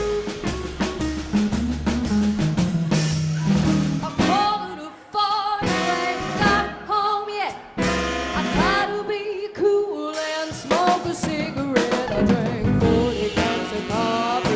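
Live swing band playing: drum kit and upright bass under a lead melody line whose notes slide and bend in pitch from about four seconds in.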